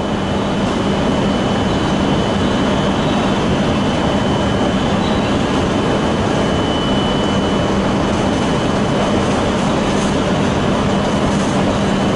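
Stationary E5 series Shinkansen standing at the platform with its door open, giving off a steady loud hum with a low drone and a thin high whine over it.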